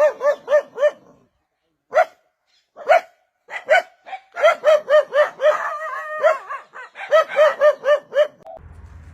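A dog barking in quick runs of high-pitched yaps, several a second, with a few single barks between the runs.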